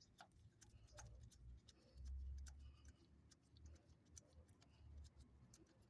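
Near silence with faint scattered clicks and small taps from hands working on the ignition coil wiring, and a brief low rumble about two seconds in.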